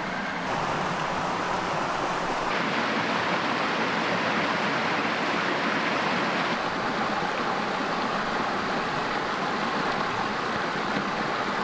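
Steady rushing of a mountain creek, its level shifting slightly a couple of times.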